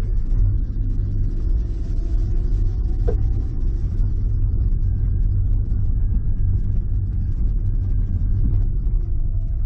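A steady low rumble, with a brief sharp sound about three seconds in.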